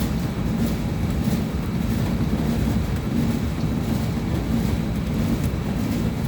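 Steady low rumble of a potato-unloading line: potatoes pouring out of a tipped trailer onto a belt conveyor, with faint scattered clicks over the machinery's drone.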